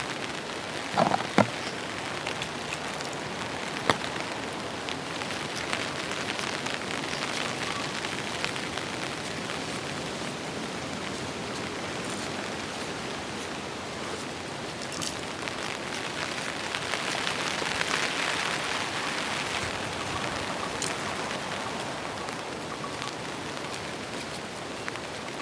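Steady rain falling, growing a little heavier for a couple of seconds past the middle. A few sharp knocks stand out: two about a second in and one at about four seconds.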